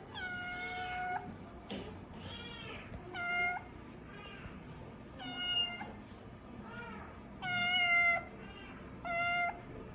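A kitten meowing repeatedly in loud, high-pitched, drawn-out cries, five strong calls with fainter, shorter meows between them.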